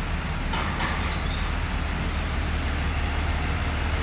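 Steady background noise of a working auto repair shop: an even hiss over a low hum, like traffic or a running vehicle, with a few faint clicks about half a second in.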